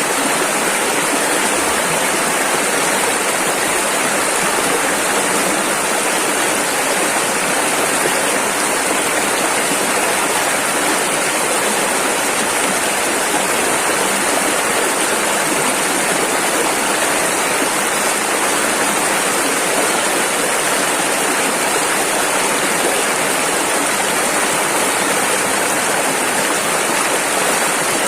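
Rushing river water, a steady, dense hiss of rapids flowing without let-up.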